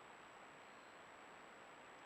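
Near silence: a faint, steady hiss with a thin, high, unchanging whine over it.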